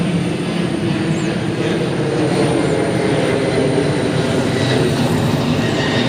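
Steady, loud rumble of a passing vehicle, growing slightly louder toward the end.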